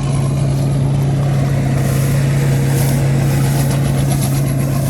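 A small engine running steadily with an even, unchanging drone.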